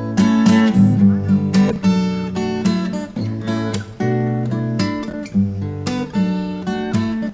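Background music led by a strummed acoustic guitar, with chords changing at a steady pace.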